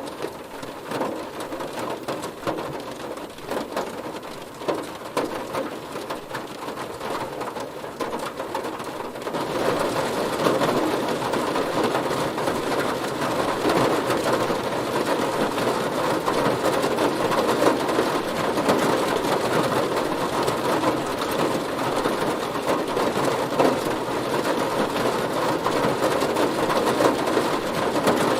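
Heavy rain drumming on a car body, a dense, steady patter of drops; it grows louder about a third of the way in.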